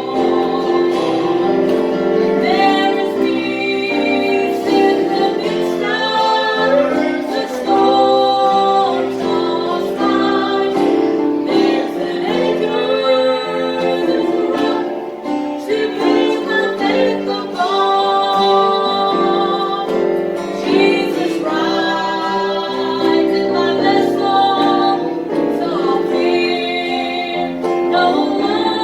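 A song with a woman singing over instrumental accompaniment, in long held notes and sustained chords.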